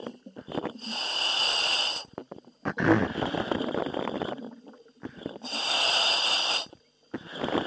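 A commercial diver breathing through a helmet's demand regulator, heard over the diver communication line: a hissing inhale about a second in and again near six seconds, each followed by a rougher, crackling exhale.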